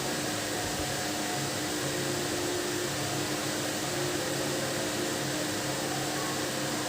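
Steady, even whirring noise with a faint low hum, like an electric fan running; no parrot calls stand out.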